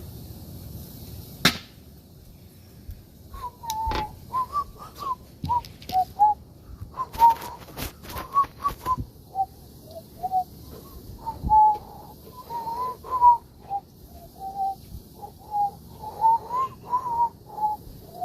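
A long run of short whistled notes, stepping up and down in pitch like a tune, starting about three seconds in. There is a sharp click at about a second and a half, and a few knocks among the notes.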